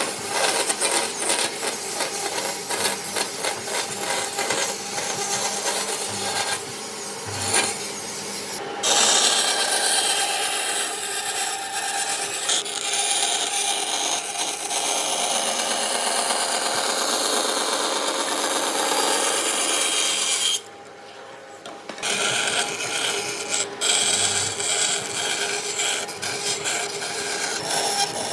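Wood being scraped and abraded with a hand tool in rapid repeated strokes, briefly dropping quieter about two-thirds of the way through.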